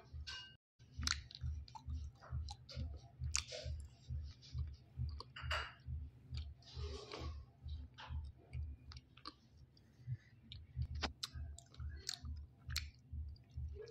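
Close-up chewing of a mouthful of edible clay with the mouth closed: soft crunching and wet mouth clicks over a steady jaw rhythm of about two to three chews a second.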